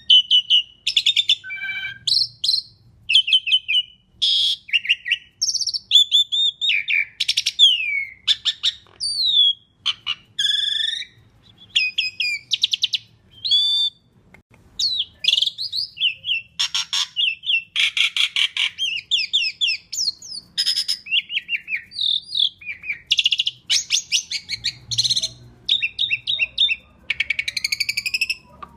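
Asian pied starling singing a long, varied song: quick runs of harsh, rasping chatter mixed with clear whistled notes and glides, with only short pauses.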